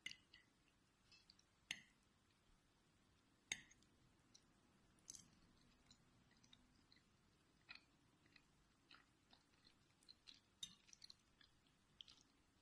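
Faint close-up chewing of farfalle pasta and snow peas, with scattered soft mouth clicks and a few sharper clicks, the loudest about two and three and a half seconds in.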